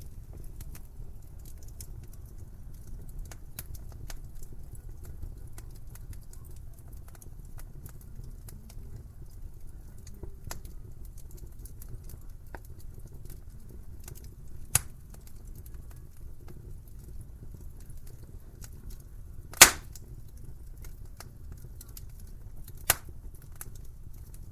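Wood fire burning in a fireplace: a steady low rumble with small crackles throughout, and three sharp pops in the latter half, the second the loudest.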